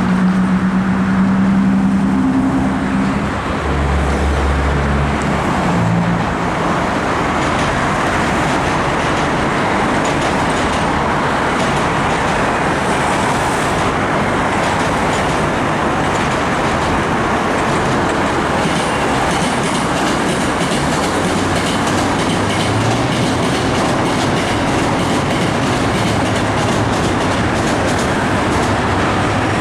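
Hankyu 5300 series electric train running across a long river bridge: a steady, loud rumble of wheels on track, with a few brief low tones in the first six seconds.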